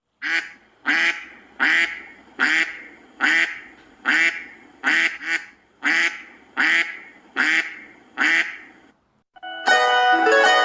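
Domestic duck quacking, about a dozen short quacks evenly spaced, roughly one every three-quarters of a second, ending about a second before the end, when plucked-string music begins.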